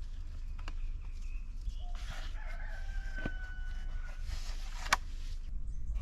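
A long, held bird call starts about two seconds in and lasts about two seconds. It is followed by a single sharp click near the end.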